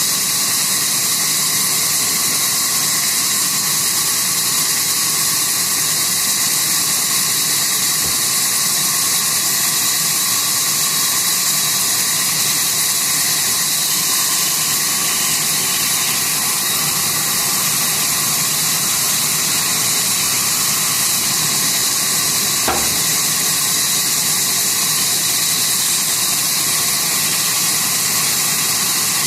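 Sawmill saw running steadily: a loud, even hiss with a faint steady whine, and one short click about three-quarters of the way through.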